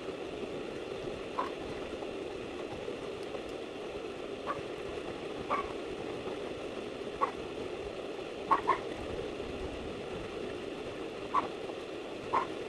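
Short single bird calls, one every second or two and twice in quick succession about two-thirds of the way through, over a steady low background hum.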